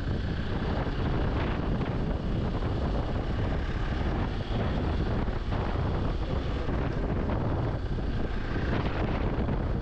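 Hero Xpulse 200 4V motorcycle's single-cylinder engine running steadily while riding, with wind rushing over the microphone.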